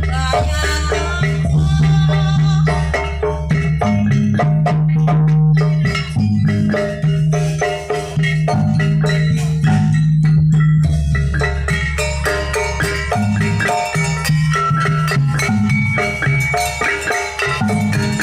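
Jaranan ensemble music: gamelan-style metallophones play a busy, fast melody over drums and a sustained low tone.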